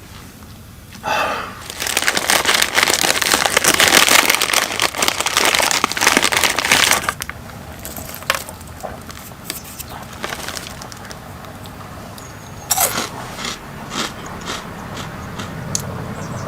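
Loud crinkling and rustling of something being handled for about six seconds, stopping suddenly, then scattered light clicks and knocks.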